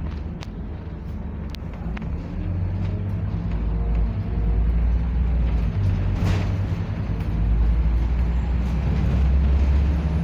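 Scania double-decker bus engine heard from on board, a deep drone that grows louder about two seconds in as the bus pulls harder, eases briefly and rises again near the end. A few light clicks and a short rattle sound over it.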